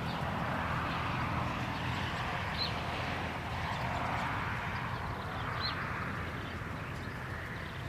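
Two short, high bird chirps, about two and a half seconds and five and a half seconds in, over a steady outdoor background hiss and low rumble.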